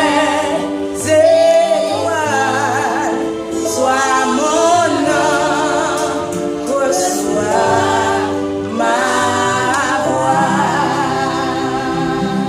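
A woman and a group of children singing a gospel song together, the voices wavering with vibrato over held low notes.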